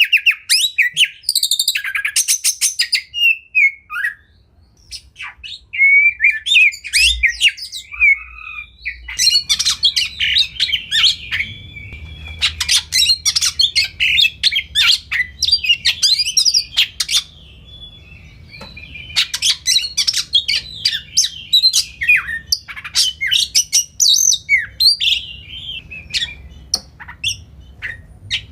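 Oriental magpie-robin (kacer) singing a long, varied song of whistled phrases and fast chattering trills, with a short pause about four seconds in. A faint low hum runs underneath from about nine seconds on.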